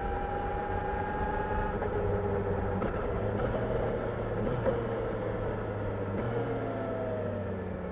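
Kawasaki Ninja 1000SX's inline-four engine running under way, with road and wind noise. The engine note rises slowly, breaks about two seconds in, turns rougher through the middle, and falls near the end.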